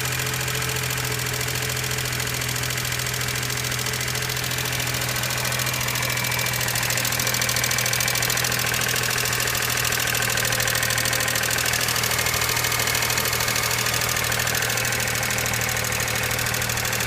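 Freshly rebuilt 1990 Geo Metro three-cylinder engine running steadily on its first start after new rings, rod bearings and a valve job, with a slight clicking noise that the owner is unsure will go away or is normal.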